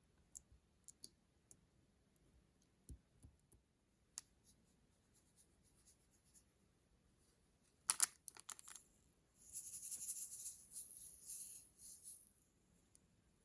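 Light scattered clicks and taps of small makeup and slime containers being handled, then a loud cluster of sharp clicks about eight seconds in. This is followed by a few seconds of dense, crisp crackling from slime being stirred and squished.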